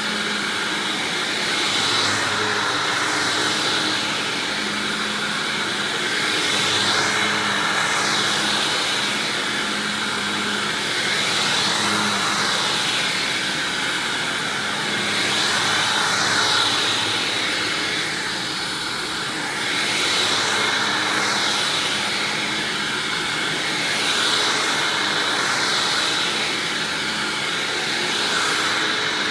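Hoover WindTunnel Self-Propelled upright vacuum, fitted with an older Maytag-era motor, running continuously with a steady hum and a high whine. Its sound swells and eases about every four seconds.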